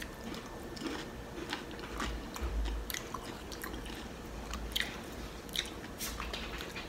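A person chewing a mouthful of loaded tortilla-chip nachos, with irregular sharp crunches of the chips.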